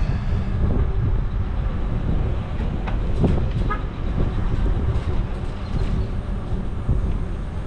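Steady low rumble of wind on the microphone and motor-vehicle traffic while cycling through a busy parking lot, with a few faint clicks.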